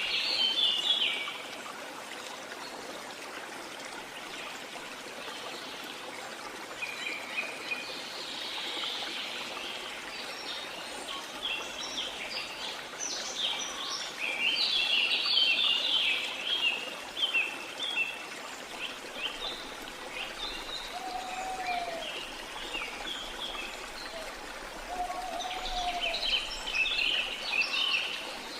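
Rainforest ambience: a steady rush of running water, with bursts of chattering, chirping bird calls. In the second half there are three short, low, rising-and-falling whistled calls.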